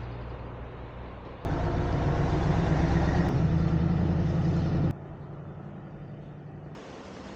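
Kawasaki Ninja 400 parallel-twin engine running steadily, heard in a few spliced clips: it jumps to a louder, stronger note about a second and a half in and drops back abruptly about five seconds in.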